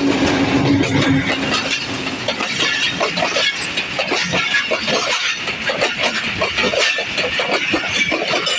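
A passenger train pulling out, its coaches rolling past with a steady rumble and many irregular knocks and clicks from the wheels on the rails. A low hum sounds in the first second or so.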